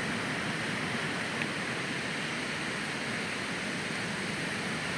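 Ocean surf breaking along a beach: a steady, even wash of wave noise.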